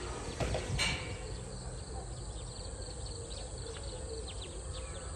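Small birds chirping in many short calls over a steady outdoor background noise, with a single brief knock just under a second in.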